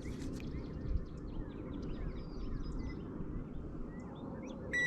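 Songbirds chirping in many short, quick notes over a steady low outdoor rumble, with a short high beep near the end.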